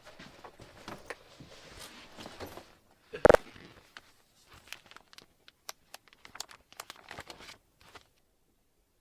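Rustling and scattered clicks of things being handled, with one loud knock a little over three seconds in. The sound stops dead about a second before the end.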